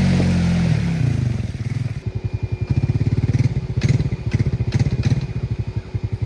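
Off-road vehicle engine revving high, its pitch falling away over the first second or so, then settling into a low, evenly pulsing chug. A few sharp knocks or clatters come near the middle.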